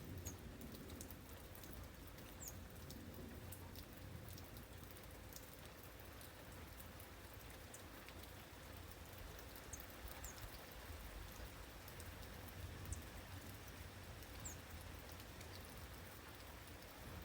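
Faint, steady rain with scattered individual drops pattering.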